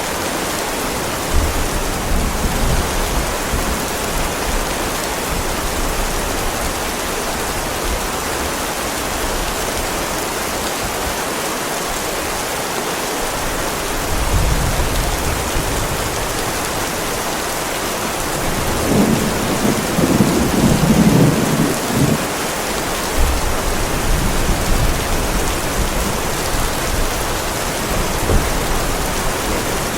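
Heavy rain falling steadily on a driveway, a constant dense hiss. Low thunder rumbles under it several times, loudest for a few seconds about two-thirds of the way through.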